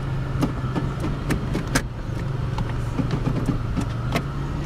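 2002 Pontiac Grand Prix GT's 3.8-litre Series II V6 idling steadily, heard from inside the cabin, with a scattering of sharp clicks and taps over it.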